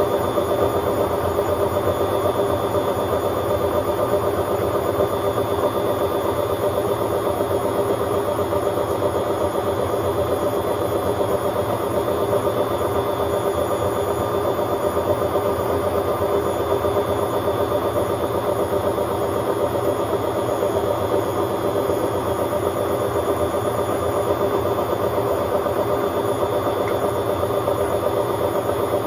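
Hotpoint Aquarius WMA50 washing machine on a spin, running loud and steady at a constant speed, its motor and drum giving a level hum with several steady tones.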